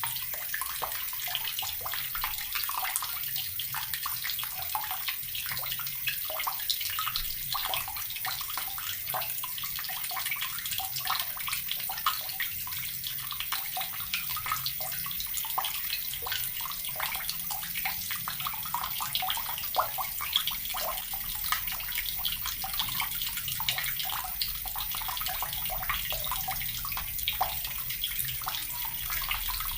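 Water from a tap running and splashing steadily, a continuous patter of small splashes.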